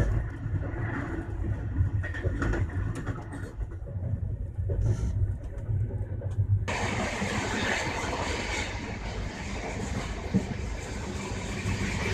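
Passenger train running, heard from on board: a steady low rumble and hum, which switches suddenly about two-thirds of the way in to a louder rushing noise of wheels and wind.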